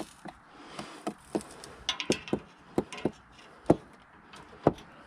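Irregular light clicks and knocks of car front-end parts being handled and fitted by hand, with two louder knocks about a second apart in the second half.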